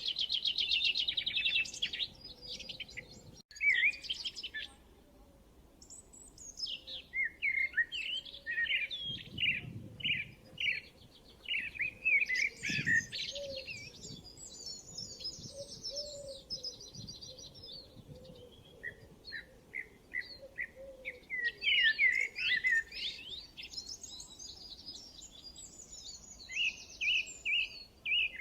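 Several songbirds singing and chirping, rapid trills and short repeated notes in bursts, quieter for a moment about five seconds in.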